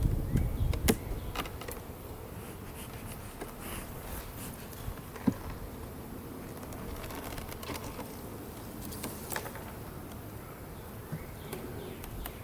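Honeybees buzzing steadily around an opened hive, with scattered light clicks and knocks. A low rumble sits under the first second or so.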